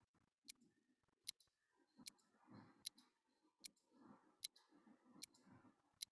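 Near silence with faint, sharp ticks evenly spaced about 0.8 s apart, like a clock ticking, over a faint low murmur.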